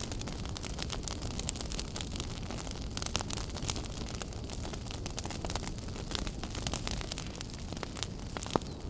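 Wood fire burning in a fireplace: a steady low rumble of flames with frequent irregular crackles and pops, one sharp pop standing out near the end.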